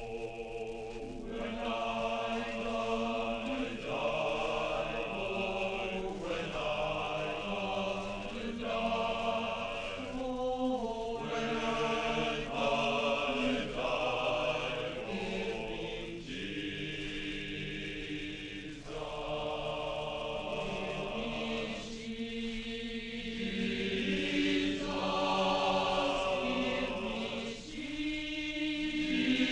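A choir singing sustained chords, the notes shifting every second or two.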